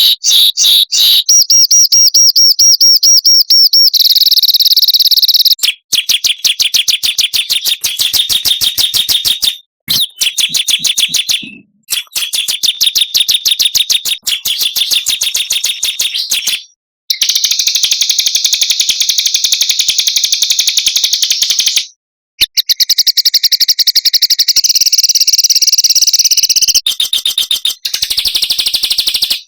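Small songbirds' birdsong used as masteran training material: very fast, dense, high-pitched trills and rattling chatter in a string of separate clips, each a few seconds long, with abrupt cuts and brief gaps between them.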